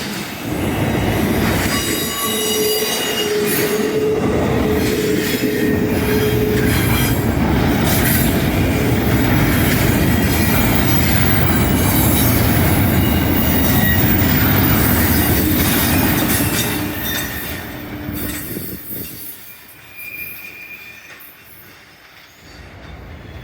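Train rolling past, wheels squealing against the rails and clicking over rail joints; a steady squeal stands out in the first few seconds. The noise fades away over the last several seconds as the train moves off.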